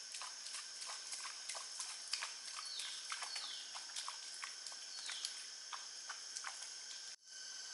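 Forest ambience with insects trilling steadily and a bird giving a few quick falling calls, over a run of light, irregular clicks and taps. The sound cuts out briefly near the end.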